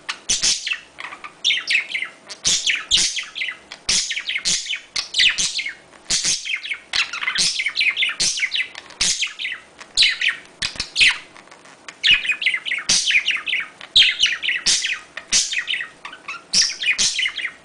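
Small pet parrots chirping and chattering, a dense run of quick high calls in bursts that follow one another without a break.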